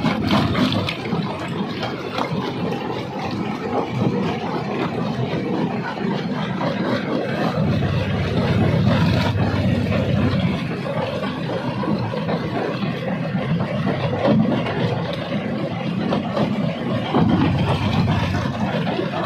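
Jaw crusher running under load: a continuous heavy machine rumble mixed with many small knocks and cracks of rock being broken.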